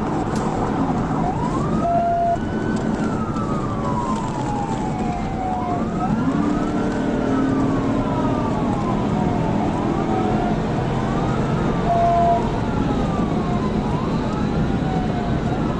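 Police cruiser siren on a slow wail, rising and falling about every four to five seconds, over steady engine and road noise from a car at pursuit speed. Two short beeps sound, about two seconds in and again near twelve seconds.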